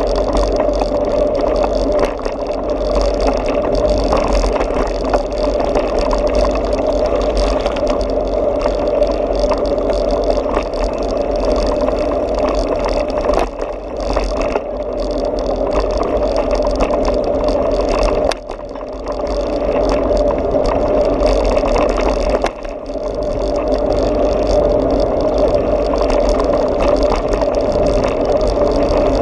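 Steady wind and road noise on a moving bicycle's camera microphone, a continuous low rumble and hum with traffic around it, dipping briefly a few times.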